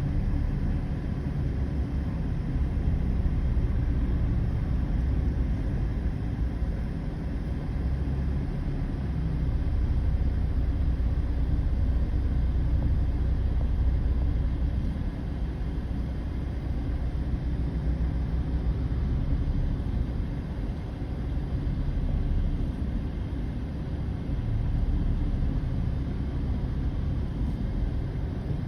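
Road traffic: a steady low vehicle rumble that swells and eases over several seconds.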